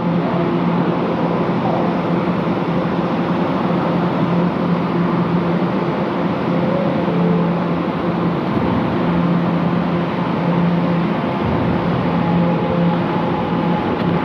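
Train running, a steady rumble and rolling noise with a faint humming tone underneath.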